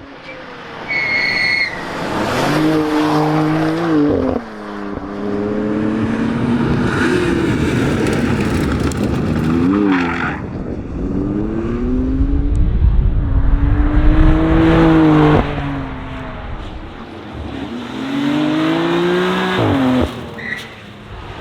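BMW M2 Competition's twin-turbo inline-six pulling hard. Its pitch climbs repeatedly and drops off sharply four times as it shifts gear or lifts for corners.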